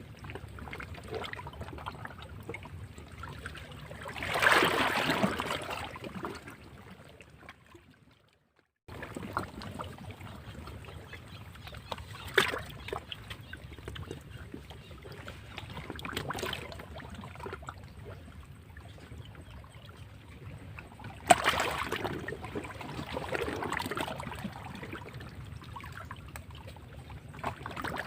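Sea waves washing against rocks: water sloshing and trickling, with louder surges of a wave breaking about four seconds in and again a little past twenty seconds. The sound cuts out for about a second a few seconds after the first surge.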